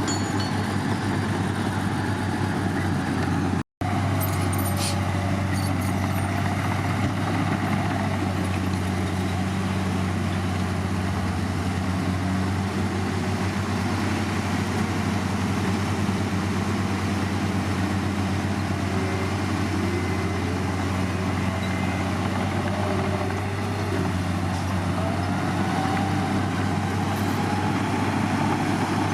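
Heavy diesel earthmoving machinery running steadily at a low, even engine note, with the sound cutting out completely for an instant about four seconds in.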